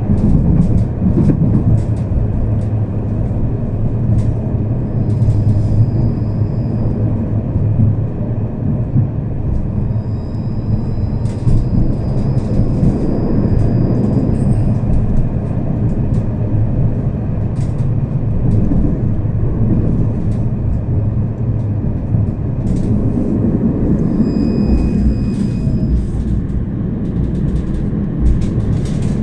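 Tram heard from inside the car while running along the track: a steady low rumble of wheels on rail and motors. Scattered clicks and knocks run through it, and thin high-pitched tones come and go for a second or more at a time.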